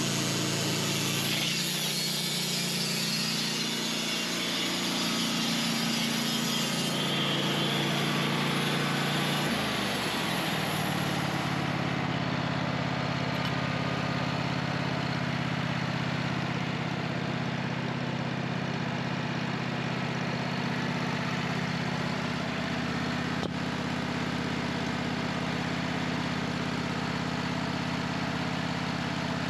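A sawmill's engine running under load while the blade cuts through oak, with a loud hiss of sawing. About ten seconds in the engine speed drops and the cutting noise stops, leaving the engine running steadily at idle.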